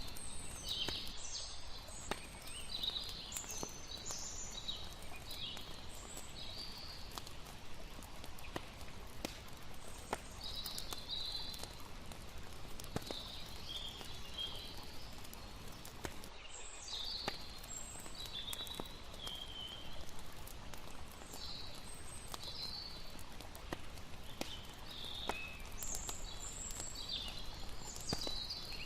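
Layered night ambience: a campfire crackling with scattered sharp pops over a steady wash of flowing water, with clusters of high chirping calls coming and going every several seconds.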